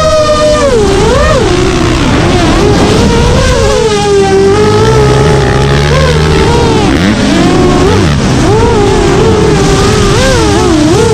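The motors and propellers of an FPV drone whine steadily, the pitch swooping up and down as the throttle changes. Motocross bike engines rev underneath, loudest near the middle.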